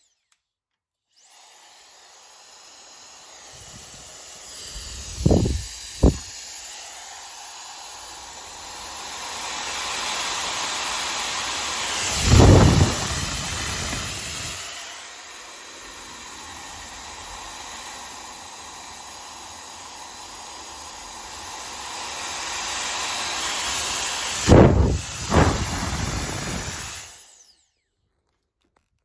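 Yamaguchi hair dryer running with a steady airy hiss. It switches on about a second in and cuts off near the end, and its blowing grows and eases as it goes, with a few short loud gusts.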